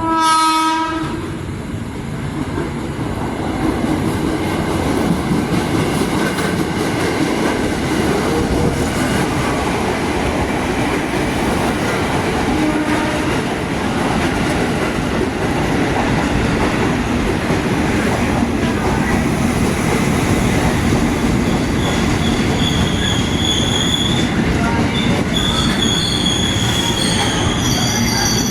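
A locomotive horn sounds briefly, then a long train rolls past in a steady rumble. From a little over 20 seconds in, the wheels squeal in several high, steady tones that come and go.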